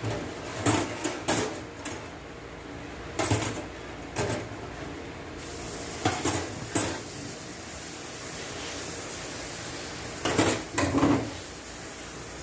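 Metal transmission parts and hand tools clinking and clanking against each other in four short clusters of knocks, over a steady background hiss.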